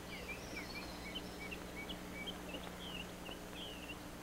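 Small birds chirping: many quick, high chirps, some rising and some falling, scattered over a steady low hum.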